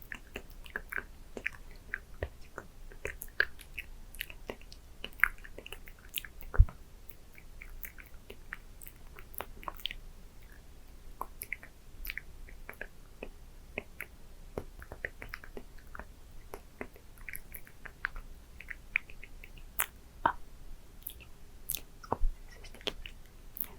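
Close-up wet mouth sounds: lips smacking and parting in many short, irregular clicks as lip balm is applied and worked in. One sharper pop about six and a half seconds in is the loudest.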